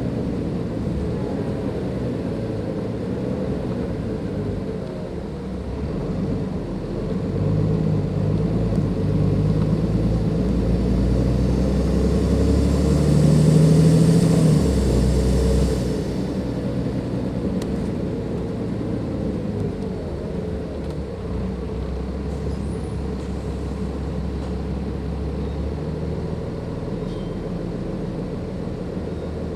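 Cummins ISLe diesel engine of a Dennis Enviro 500 double-decker bus under load, building from about six seconds in to a loud peak near fourteen seconds with a high turbocharger hiss over it. At about sixteen seconds it drops back to steady, lower running.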